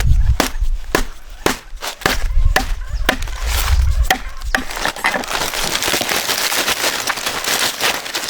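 A quick, irregular run of sharp cracks and snaps, turning into denser crackling about halfway through, like wood or dry material being broken or crushed.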